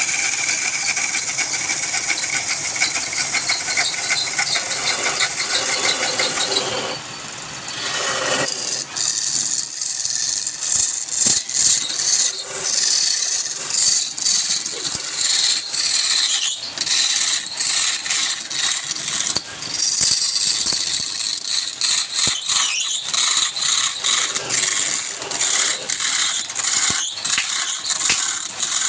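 A turning tool cutting a spinning wood blank on a lathe: a continuous high scraping hiss broken by rapid rattling clicks, dropping off briefly about seven seconds in before the cutting resumes.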